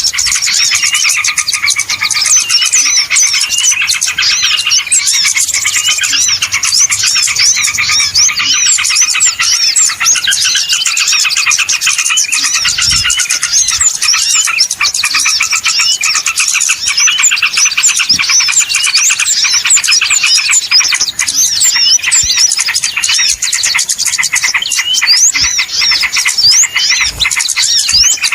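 A dense, noisy chorus of many small birds chirping and calling over one another without a break, with quick rising and falling notes.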